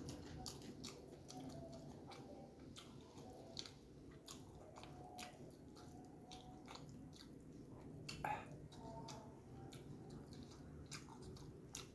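A person chewing soft food, rice with stir-fried mushrooms, close to the microphone, with many small wet mouth clicks and smacks. One brief louder noise comes about eight seconds in.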